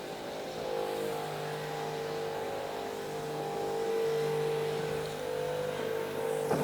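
Steady motor drone of a battery-powered pump sprayer running while it sprays odor destroyer, over the constant hum of a truckmount carpet-cleaning engine. The pitched drone gets stronger about a second in and holds steady.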